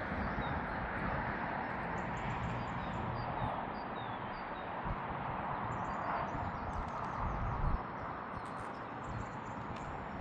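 Outdoor ambience of steady wind-like noise, with a small bird giving short falling chirps over and over, and a brief low buffet of wind on the microphone about three quarters of the way through.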